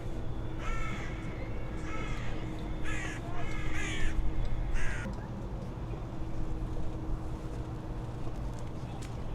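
A crow cawing, about five harsh calls in the first five seconds, over a steady low hum of traffic.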